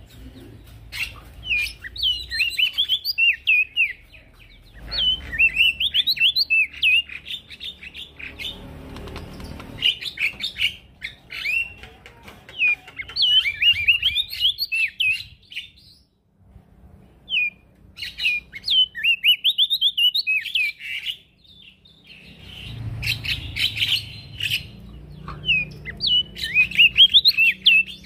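Male prenjak daun singing in full voice: bouts of quick, high twittering notes that rise and fall sharply, broken by short pauses about 16 and 21 seconds in.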